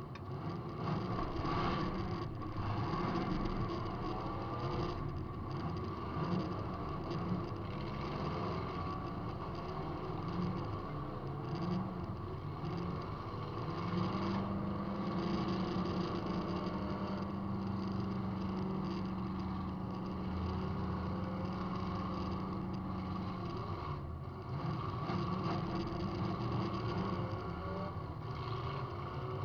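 Demolition derby car engine heard from inside the cabin, revving up and down unevenly, then holding one steady pitch for about nine seconds in the middle before varying again.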